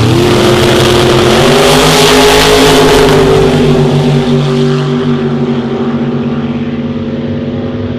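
Drag racing car's engine at full throttle down the strip, loud and nearly steady in pitch, its high end fading from about halfway as it pulls away.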